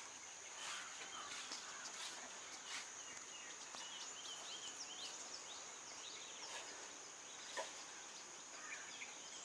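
Faint outdoor ambience of insects making a steady high drone, with many short bird chirps clustered in the middle.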